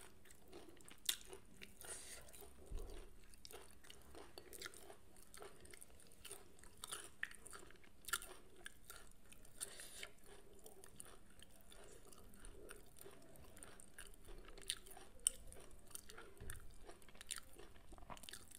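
Faint chewing and mouth sounds of someone eating rice and fried mackerel by hand, with short sharp clicks scattered throughout.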